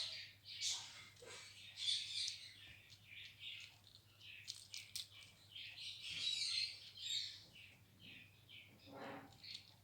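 Ringneck parakeet chattering in runs of short high-pitched chirps and squawks, with a few sharp clicks around the middle and a harsher, lower call near the end.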